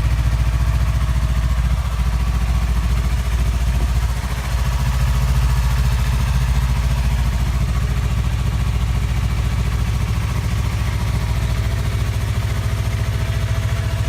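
Yamaha MT-25's parallel-twin engine idling steadily through an aftermarket Powerbox muffler, with a brief dip in level about four seconds in.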